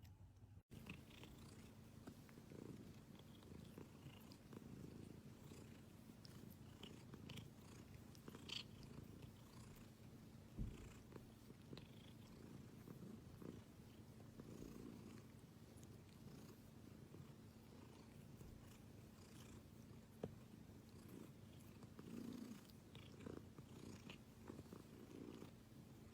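A domestic cat purring, faint and steady, with a few soft clicks now and then.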